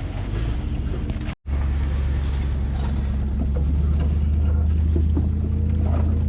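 Four-wheel-drive truck's engine running steadily at low speed on a trail, with light rattles. The sound cuts out for a moment about a second and a half in, then returns as a stronger, steadier hum.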